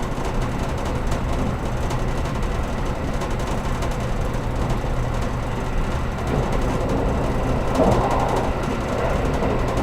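Running noise of a JR Kyushu 783 series electric train, heard inside the passenger car: a steady rumble of wheels on the rails, with a louder, rougher patch about six to eight seconds in.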